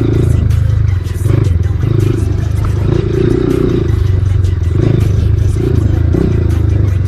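Single-cylinder dirt bike engine running under load on a loose dirt and rock trail, its pitch dipping briefly about a second in and again near the end, with many sharp clicks and knocks of stones under the tyres.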